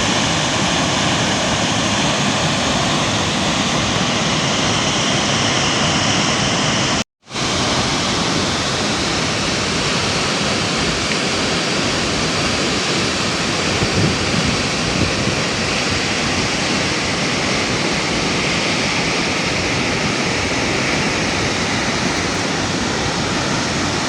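Thomson's Falls waterfall: a loud, steady rush of falling water, with a brief complete drop-out about seven seconds in.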